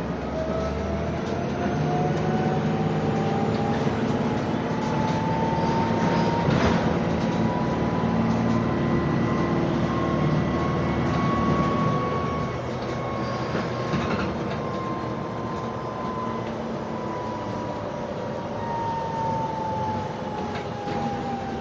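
Heuliez GX 427 hybrid city bus heard from inside the cabin, its electric drive whining: the whine climbs slowly in pitch for about twelve seconds, then slowly falls. Under it a low engine hum runs and drops away about halfway through.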